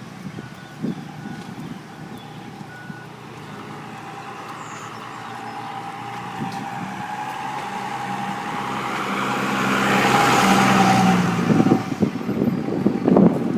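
A motor vehicle, likely a truck, approaching and passing close, its engine hum growing louder to a peak about ten seconds in and then dropping away. Wind gusts then buffet the microphone near the end.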